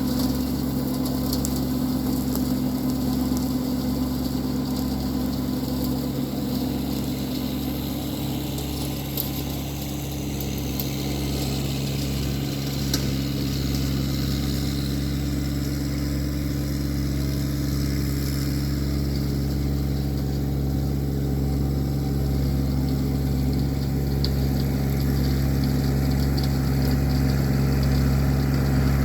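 Massey Ferguson 1725 compact tractor's 25 hp engine running steadily under load, driving a 4-foot rotary brush cutter (brush hog) through brush. The level dips slightly about ten seconds in, and there are a few faint sharp ticks.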